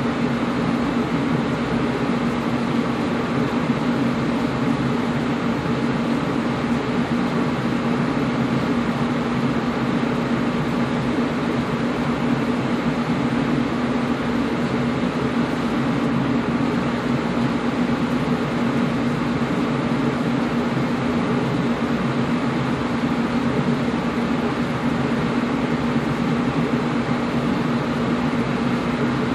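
Air conditioner running steadily: an even rush of air with a constant low hum from its motor, no change throughout.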